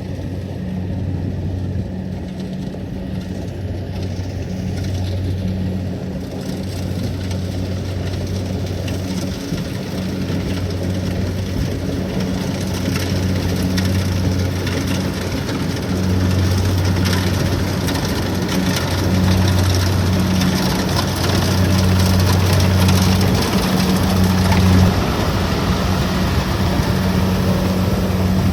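Kubota DC-70 Plus rice combine harvester's diesel engine running steadily under the noise of the working machine, growing gradually louder.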